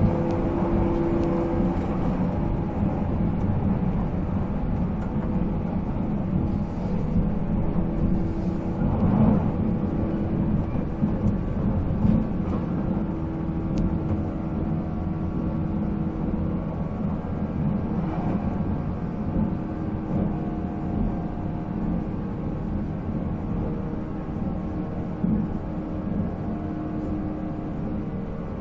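A 485 series electric train's MT54 traction motors running at speed: a steady whine of several held tones over continuous wheel and rail rumble, easing slightly toward the end.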